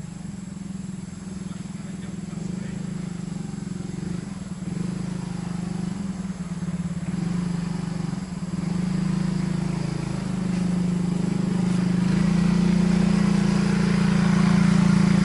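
A small engine running, its pitch holding steady but shifting up and down in small steps, getting steadily louder throughout.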